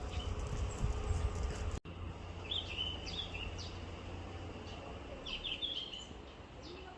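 Yellow-rumped flycatcher singing: two short bursts of quick high notes a few seconds apart, over a steady low rumble of background noise.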